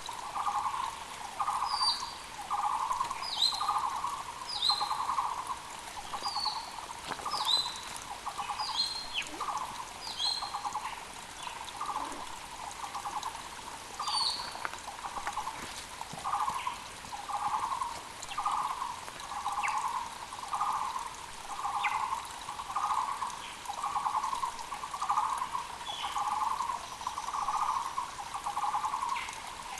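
Taiwan barbet (Müller's barbet) calling: a loud, evenly repeated low note, about three every two seconds. Other small birds give short high chirps, more often in the first half, over the faint steady rush of a mountain creek.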